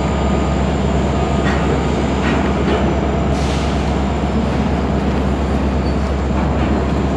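Freight train of covered hopper cars rolling past at steady speed: a continuous rumble of steel wheels on rail, with a few short clicks and faint squeals from the wheels.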